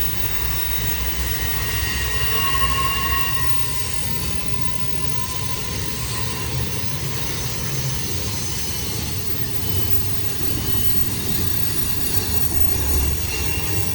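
Train rolling across a railroad bridge: a steady low rumble of the wheels on the rails, with thin, high wheel squeal from the curve about a second in.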